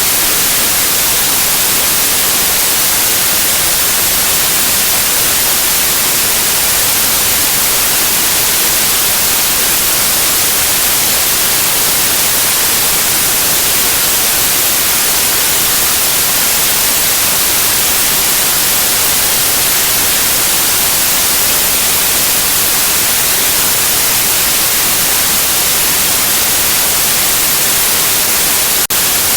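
Steady, loud electronic white noise: an even hiss, brightest in the high frequencies. A brief dip near the end.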